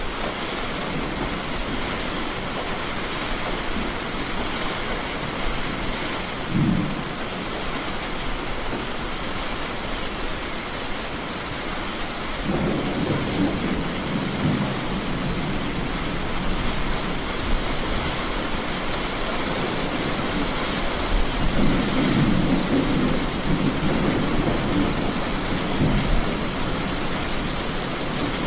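Steady heavy rain with thunder: a short low crack about six seconds in, then thunder rumbling from about twelve seconds on, swelling again past twenty seconds.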